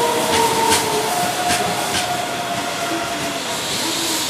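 Keihan 9000-series electric commuter train moving away round a curve: a steady rail noise with a few held whining tones that slowly sink in pitch, and wheel clicks over rail joints in the first two seconds.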